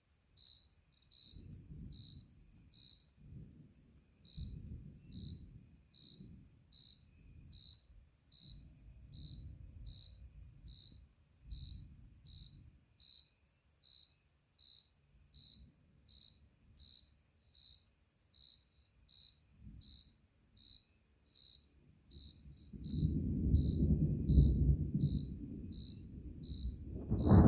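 A cricket chirps steadily, about two short high chirps a second, over distant thunder rumbling low. Near the end a louder, longer thunder rumble builds.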